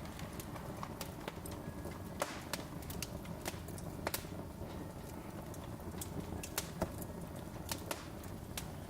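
Wood fire in a fireplace crackling, with irregular sharp pops over a low, steady rumble of burning.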